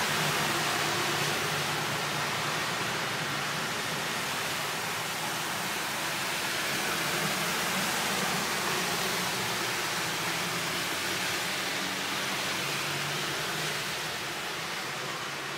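Steady rushing of a heavy rainstorm, with cars driving through a flooded street and their tyres swishing through the standing water.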